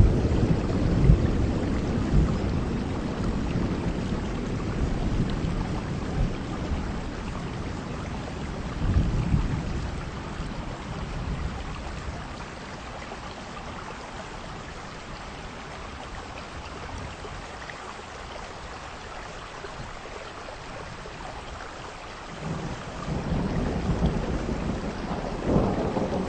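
Heavy rain falling steadily with rolling thunder. The rumble fades over the first few seconds, swells briefly about nine seconds in, leaves mostly rain hiss through the middle, then builds again near the end.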